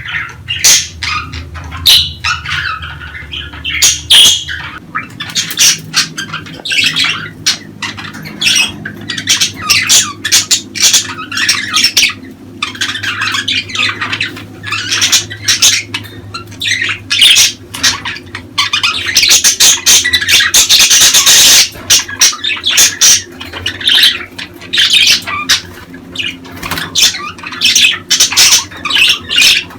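Budgerigars chattering, with a rapid run of short chirps, warbles and squawks that grows busiest and loudest about two-thirds of the way through.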